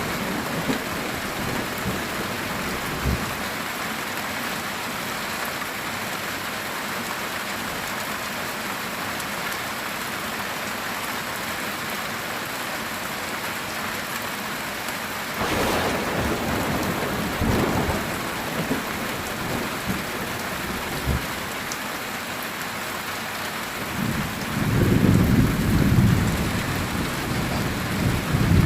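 Heavy rain drumming steadily on a metal tin roof, with a sharp thunderclap about halfway through and a louder low rumble of thunder near the end.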